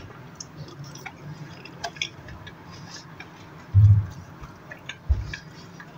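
Close-miked eating: soft chewing and small wet mouth clicks as a french fry is eaten, with two short low thumps about four and five seconds in.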